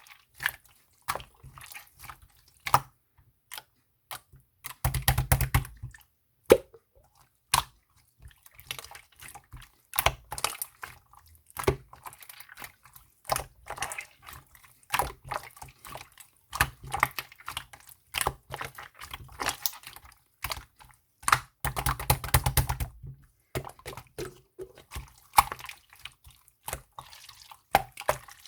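Clear slime squished and poked by hand, giving a string of wet sticky clicks and pops. Twice it breaks into a longer run of rapid crackling, about five seconds in and again near the end.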